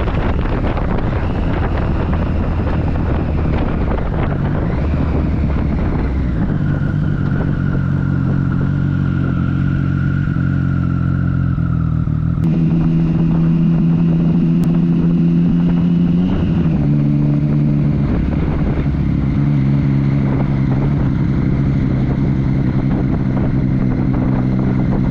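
Motorcycle engine running at cruising speed while riding, with wind noise on the microphone. The engine note steps up a few seconds in and rises and falls briefly about two-thirds of the way through.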